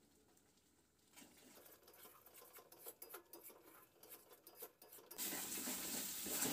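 A flat metal spatula scraping and stirring a thick spice paste around a kadai: after a near-silent first second, faint taps and scrapes, then about five seconds in a steady sizzle of the paste frying in butter sets in suddenly, with scraping over it. The masala is being fried down (koshano) with a little water.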